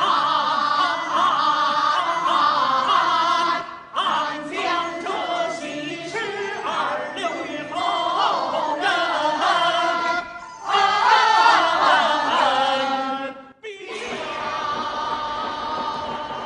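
A large mixed chorus of Kunqu opera performers singing together in phrases with short breaks between them; the last phrase is softer.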